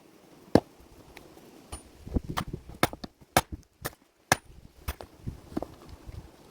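A series of about a dozen sharp, irregular knocks and clacks, some with a dull thump beneath, the loudest about half a second in.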